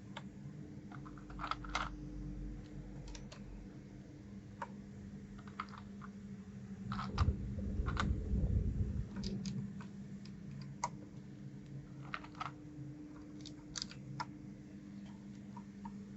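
Irregular, scattered key clicks on a 1STPLAYER DK 5.0 mechanical keyboard, some in quick pairs, over a steady low hum.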